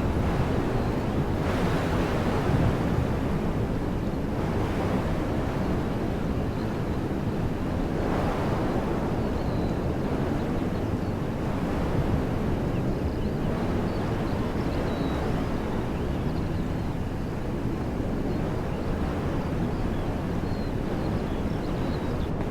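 Wind blowing through woodland trees: a steady rushing that swells in gusts every few seconds, with wind buffeting the microphone at the low end.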